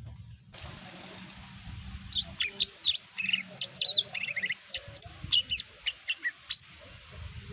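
Cucak ijo (green leafbird) singing: a fast, varied run of sharp, high chirps and whistles lasting about four seconds and stopping abruptly, over a faint hiss.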